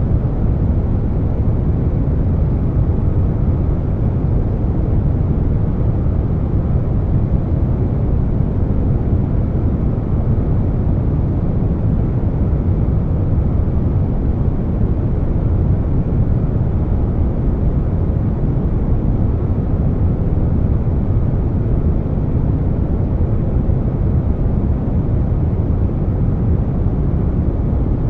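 Air conditioner noise layered with brown noise: a continuous, steady low rumble with no changes.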